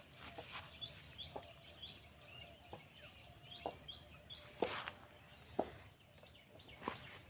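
A bird chirping: a series of short, high, hooked notes about two a second for a few seconds, over scattered sharp clicks and snaps.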